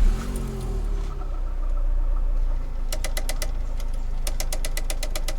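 Peugeot 307's engine starting and settling into a steady idle. From about three seconds in, groups of rapid sharp clicks run over it.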